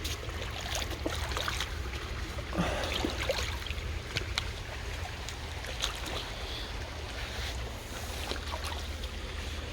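Feet squelching and splashing as they pull free of soft, waterlogged creek sand, with scattered sloshes and clicks over the sound of running creek water and a steady low rumble.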